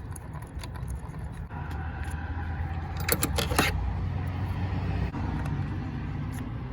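A brief burst of metallic clicks and rattling about three seconds in, from tools and parts handled in a car's engine bay, over a steady low rumble.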